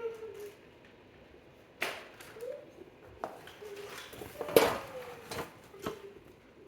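Small hard objects clattering and clacking as they are handled, with several separate knocks, the loudest about four and a half seconds in, and a few short voice-like hums between them.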